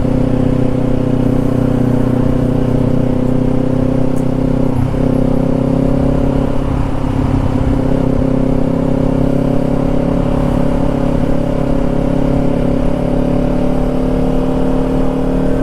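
Motorcycle engine running steadily under way, its pitch dipping briefly about five seconds in and then slowly rising.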